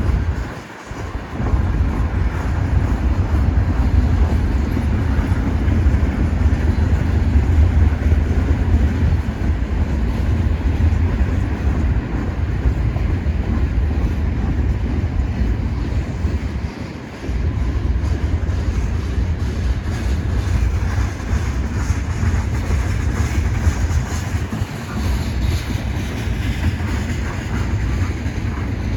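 Freight train rolling past: a steady, loud rumble of wheels on rail, with brief lulls about a second in and about 17 seconds in.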